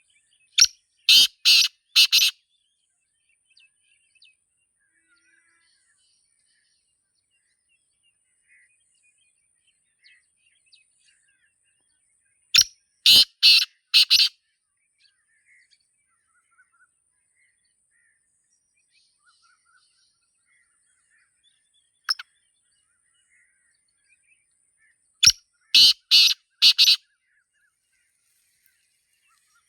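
Black francolin calling: three loud bursts of four or five harsh, grating notes each, about twelve seconds apart, with a single short note between the second and third. A faint steady high whine and scattered faint chirps sound in the pauses.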